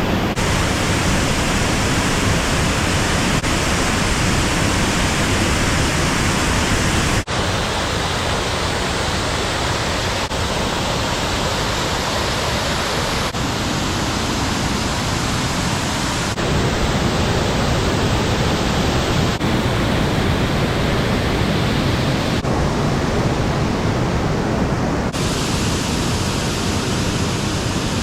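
Waterfall pouring: a loud, steady rush of falling water with no break, its tone shifting abruptly a few times.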